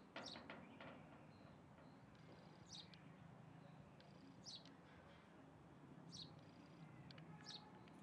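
Faint, short, high-pitched bird chirps: a quick run of several at the start, then single chirps every second or two. Faint thin whistles of distant birds sit behind them.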